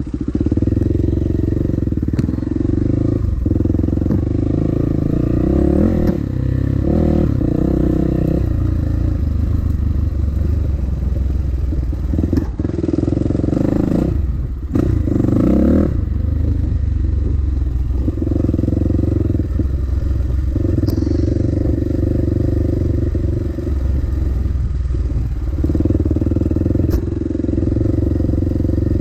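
Dirt bike engine running under changing throttle on a trail ride, easing off and picking up again, with a brief drop in engine sound about halfway through.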